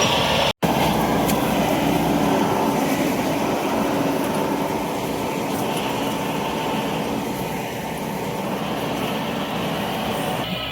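Combine harvester running steadily, a continuous mechanical engine noise, with a momentary gap just after the start.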